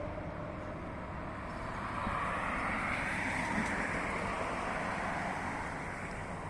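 Scania S-series truck driving past: tyre and engine noise that swells to a peak about three seconds in, then slowly fades.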